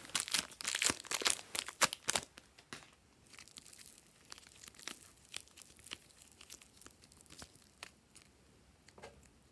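Slime being worked by hand, giving quick crackling clicks and pops. The clicks are dense and loud for the first two seconds, then thin out to faint, scattered clicks.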